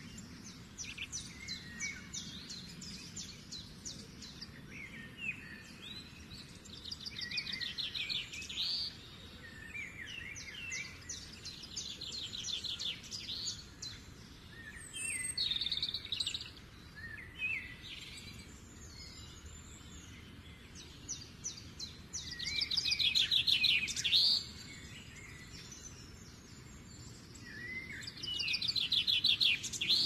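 Birds singing: a bright, rapid trill repeated in phrases of one to two seconds every few seconds, with shorter chirps scattered between. The trills are loudest in the last third.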